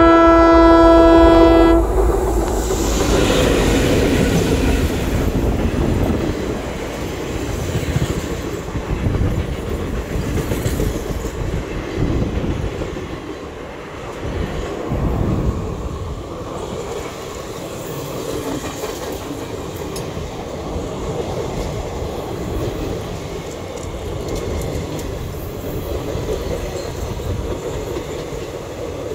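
Twin WDG3A diesel locomotives, ALCO 16-cylinder engines, blow a loud horn blast that stops about two seconds in, then run past with engines working. The passenger coaches follow, wheels rumbling and clacking over the rail joints.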